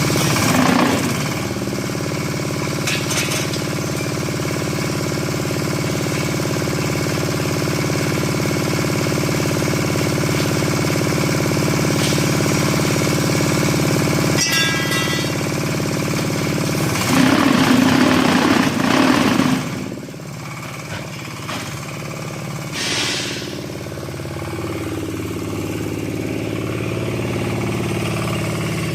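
Diesel engine of a hydraulic concrete hollow block making machine running steadily. A louder, rougher stretch of about two seconds comes a little past the middle, then the sound drops somewhat.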